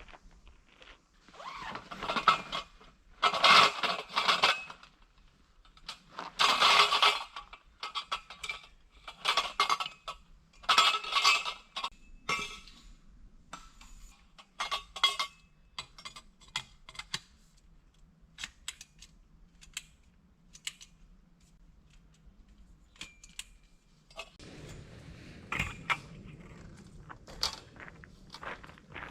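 Hands handling camp gear: rustling and scraping for the first dozen seconds, then a run of light metallic clicks and clinks, with a steady noise coming in near the end.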